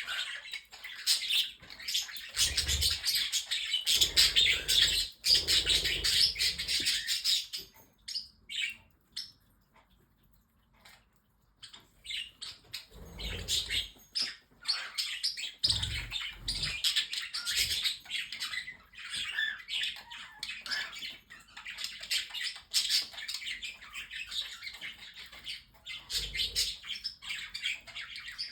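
A flock of budgies with parrotlets and cockatiels chattering and chirping in a fast, continuous warble, falling almost silent for a few seconds about a third of the way in before starting up again. A few low thuds come in among the chirps.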